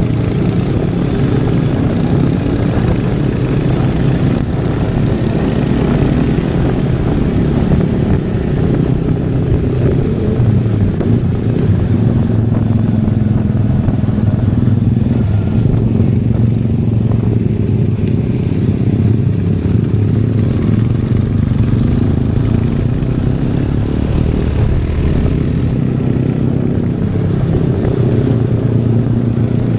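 Royal Enfield Hunter 350's single-cylinder engine and exhaust running while the motorcycle is ridden, the engine note rising and falling with throttle and gear changes.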